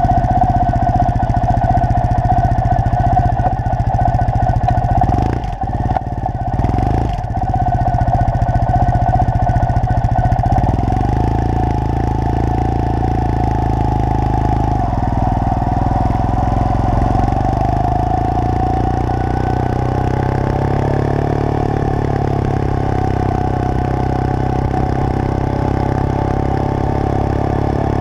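Triumph Thruxton parallel-twin motorcycle engine running as the bike is ridden. There are two brief dips in the engine note a few seconds in, then a steady, even run.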